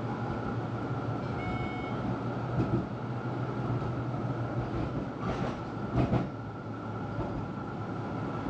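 Tram running on its rails, heard from inside the car: a steady rumble and hum, with a brief high squeal about a second and a half in and a couple of knocks and rattles around five to six seconds in.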